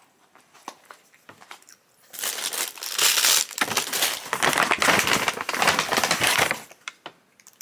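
Takeout food packaging being handled, crinkling and rustling loudly for about four and a half seconds, starting about two seconds in, after a few faint small clicks.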